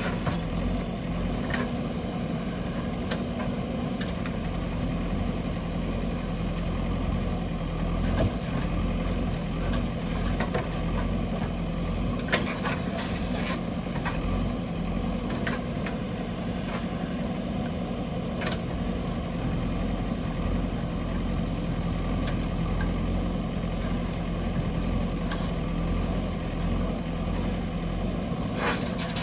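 JCB 3DX backhoe loader's diesel engine running steadily, with scattered sharp knocks and clanks, the clearest about a third of the way in, near the middle and at the end.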